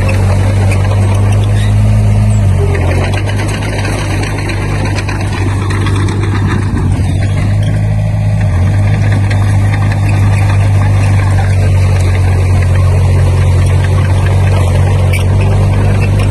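Diesel engine of heavy earthmoving equipment running loud and steady, its pitch stepping slightly twice.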